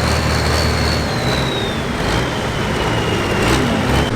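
Turbocharged diesel engine of a Super Farm pulling tractor running hard under load on the sled, with a loud, high turbo whistle that sinks in pitch over the last two seconds as the engine eases off.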